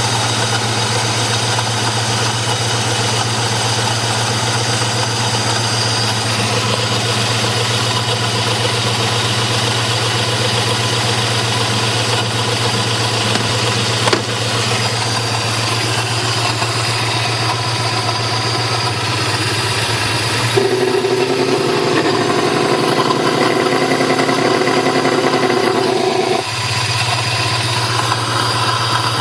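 1995 Toyota 4Runner's 3VZ-E V6 engine idling with a loud, throaty exhaust-like sound from the PAIR valve opening into an aftermarket air intake that has no resonator, which the owner found made worse by two shorted spark plugs. About two-thirds of the way through the note shifts higher and holds for several seconds, then drops back to the idle note.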